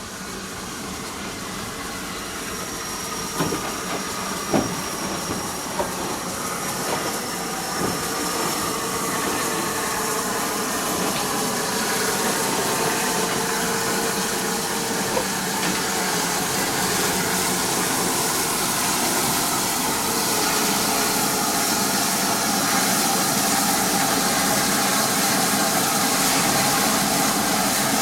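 Steam locomotive working with a train: a steady hiss of steam that grows gradually louder, with a few sharp clicks between about three and eight seconds in.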